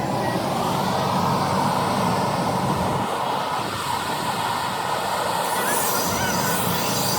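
Steady mechanical rushing noise of car wash equipment running without a break.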